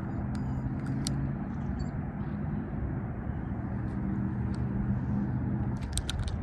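Low, steady hum of a motor vehicle's engine droning, fading out near the end, with a few sharp clicks about a second in and again near the end.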